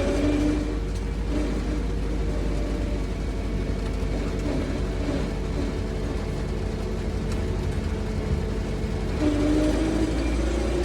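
Belarus MTZ tractor's four-cylinder diesel engine running steadily under way, getting a little louder about nine seconds in.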